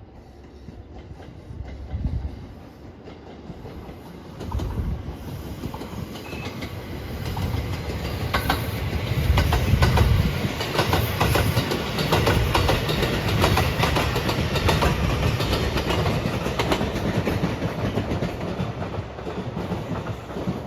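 Train passing close by, its wheels clicking over rail joints. It grows louder from about four seconds in, is loudest near ten seconds and runs on steadily to the end.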